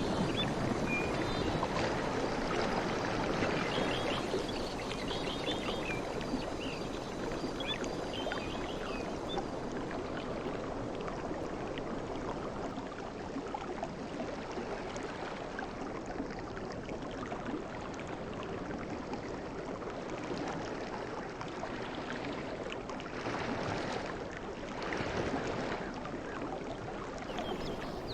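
Sea waves washing in a steady rush of water, with two slightly louder swells near the end.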